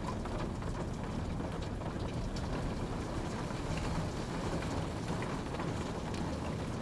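Steady rainfall, a dense even hiss with scattered individual drops ticking on a surface.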